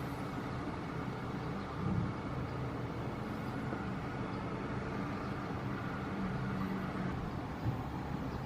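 Steady low engine rumble with a faint wavering hum, unbroken throughout.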